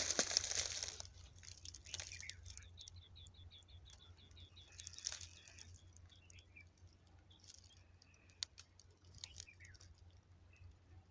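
A rustling burst in the first second, then a small animal's quick run of high chirps, about seven a second for roughly two seconds, followed by scattered short chirps and soft clicks.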